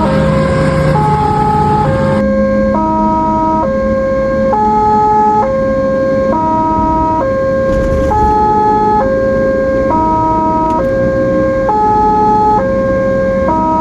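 Ambulance hi-lo two-tone siren switching back and forth between a lower and a higher note just under once a second, over the vehicle's road and engine noise.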